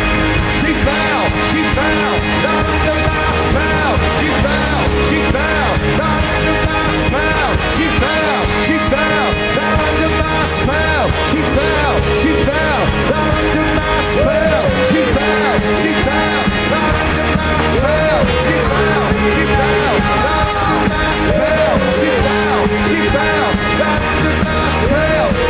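Rock band playing live and loud, with drums, bass and guitars, and a lead line of short notes that bend up and fall back, repeating throughout.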